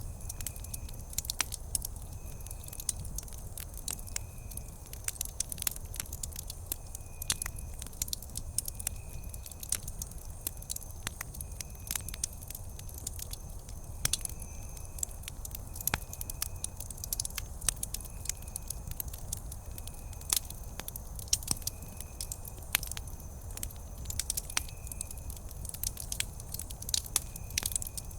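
Wood campfire crackling, with frequent irregular sharp pops and snaps over a steady low rumble. A faint, short high chirp recurs every second or two behind it.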